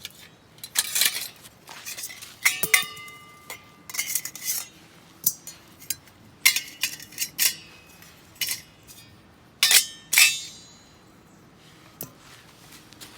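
Metal camp cookware and utensils being handled: an irregular series of clinks, clanks and scrapes. One knock a little before three seconds in rings briefly like struck metal.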